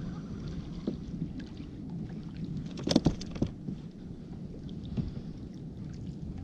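Water sloshing against a kayak's hull, with scattered sharp knocks; a quick cluster of knocks about three seconds in is the loudest.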